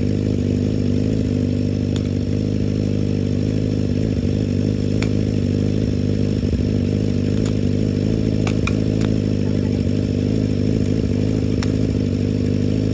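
An engine running steadily at a constant speed, with a few sharp clicks scattered over it.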